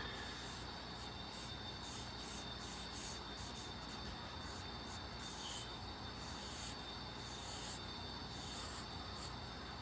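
Drawing strokes scratching on paper: a quick series of short, light strokes, as in sketching.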